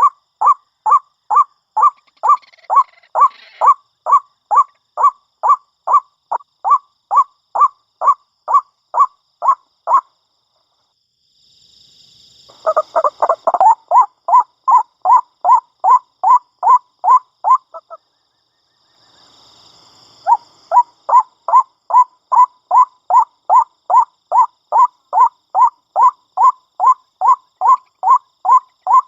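White-breasted waterhen (ruak-ruak) calling, a long run of short repeated notes at about two and a half a second. The run breaks off twice for about two seconds and then starts again.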